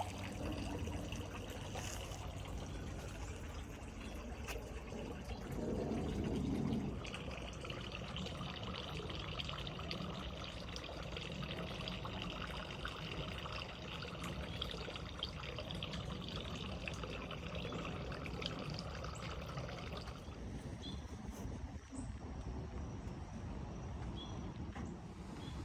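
Water pouring and trickling steadily, with a brief louder gush about six seconds in.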